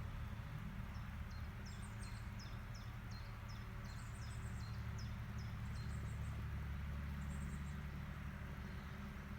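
Steady low rumble of an agricultural machine's engine working at a distance, with a small bird chirping over it in a quick run of short high notes.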